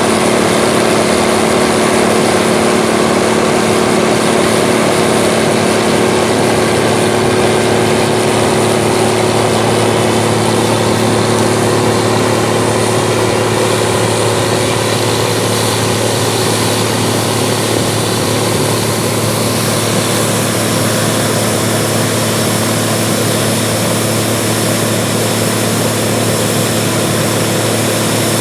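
Case International 1660 Axial-Flow combine running steadily while harvesting soybeans, a constant loud engine drone with a low hum. The sound eases a little about twenty seconds in.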